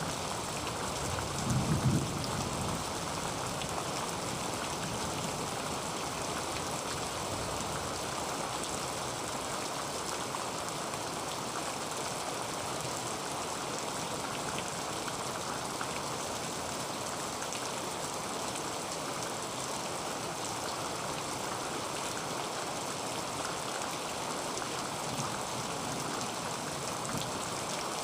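Heavy rain falling steadily on a tin roof, a dense even patter. About two seconds in, a short low rumble of thunder rises above it.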